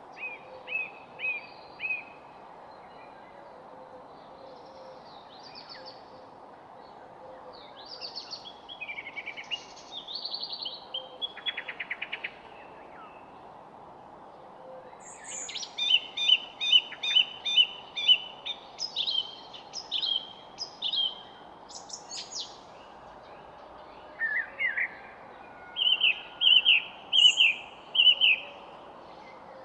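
Several songbirds singing and calling, with short repeated chirps, a rapid buzzy trill and dense bursts of song, over a steady background hiss.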